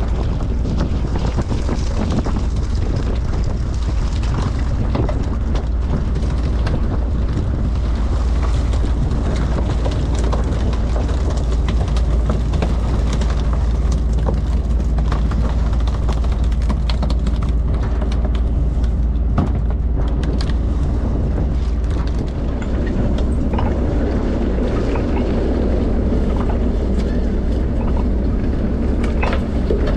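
Small bottom-trawler fishing boat's diesel engine running steadily, a loud low drone, with a brief dip in level and a slight change in its tone about 22 seconds in.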